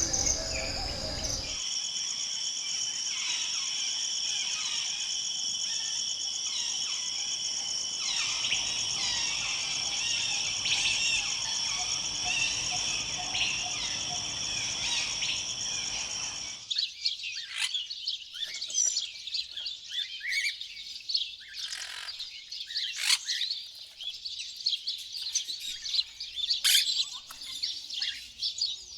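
A steady, high insect chorus holding two pitches, with scattered bird calls over it. A bit over halfway through it gives way abruptly to a busy flock of small birds chirping rapidly.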